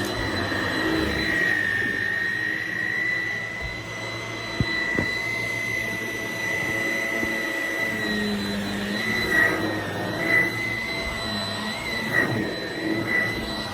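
Shark Rocket stick vacuum running with a steady high whine. Two sharp clicks come about four and a half and five seconds in, and the whine's pitch wavers over the last few seconds.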